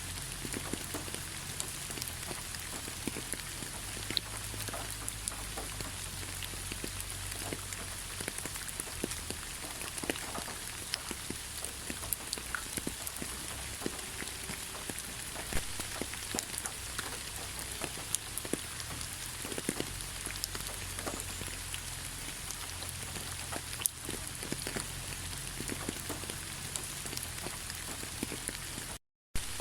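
Steady rain falling in a thick pine forest: an even hiss of rain scattered with many separate drops ticking close by. The sound cuts out completely for a moment near the end.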